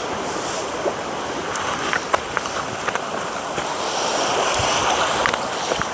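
Steady rushing of a river in spate, with scattered sharp crackles over it.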